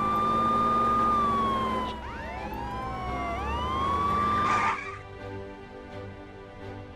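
Cartoon fire truck siren wailing, its pitch rising, holding and falling in overlapping sweeps, then cutting off near the end, followed by background music.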